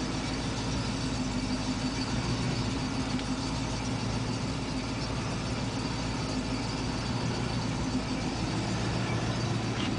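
Rover SD1 engine idling steadily while warming up after a cold start, heard from inside the car.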